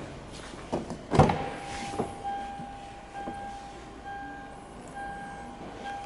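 A Toyota Hilux Surf's door latch clicks and clunks about a second in. Then the dashboard warning chime beeps on and off in an even rhythm.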